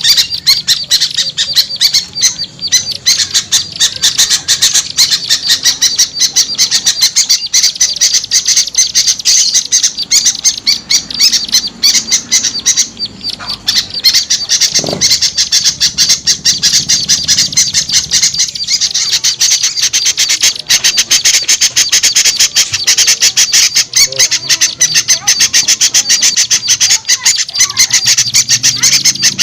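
Loud, agitated chattering of small birds: a dense, unbroken run of rapid sharp high notes from a bird-lure call recording that mixes noisy small-bird calls to draw birds down.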